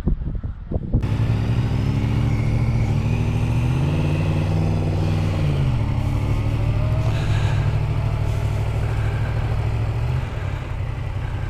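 Motorcycle engine running on the move, starting about a second in; its note rises briefly about four seconds in and drops back to a steady cruise.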